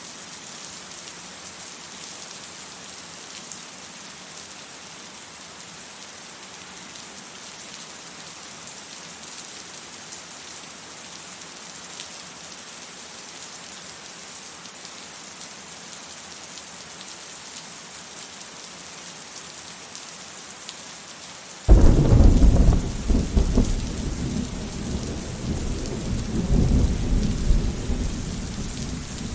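Steady heavy rain hissing, then, about three-quarters of the way through, a sudden loud clap of thunder that rolls on as a deep rumble, swelling again shortly before the end.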